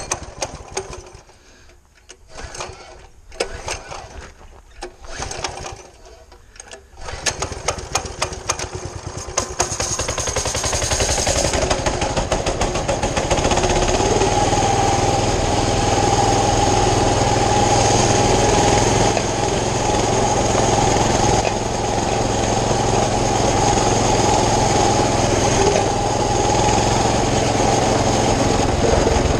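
Small mini bike engine sputtering in short, irregular bursts, then catching about seven seconds in, picking up speed and running steadily.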